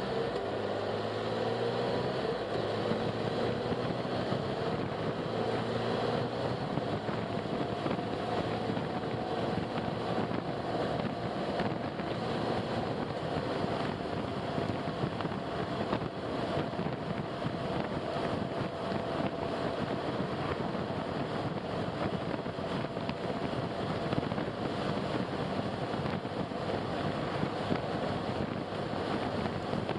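Car driving on a road: steady engine and tyre noise. The engine note climbs over the first few seconds as the car picks up speed, then holds steady.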